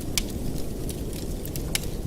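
Wood fire burning in a fireplace, crackling with sharp pops over a steady low rumble, two pops standing out clearly, near the start and near the end.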